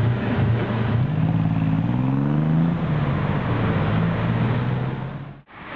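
Tuk-tuk (auto rickshaw) engine revving as it pulls away, its pitch rising for a couple of seconds and then dropping back to a steady run, amid road and wind noise. It cuts off abruptly near the end.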